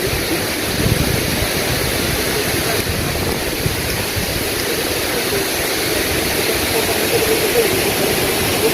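Lapopu waterfall pouring steadily: an even, unbroken rush of falling water.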